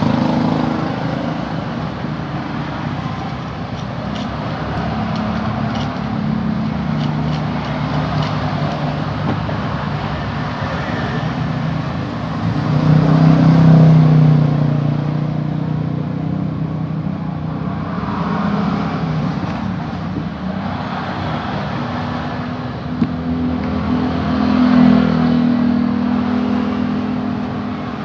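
Motor vehicle engines running, with a steady drone that shifts in pitch and swells louder about halfway through and again near the end.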